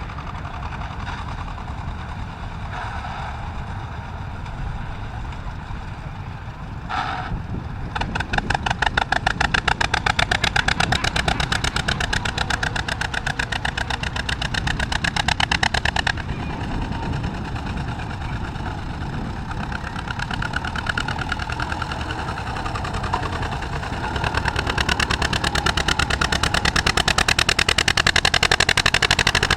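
Tractor engine running, with two louder stretches of rapid, even firing pulses: one from about eight seconds in, cutting off abruptly around sixteen seconds, and another building again near the end.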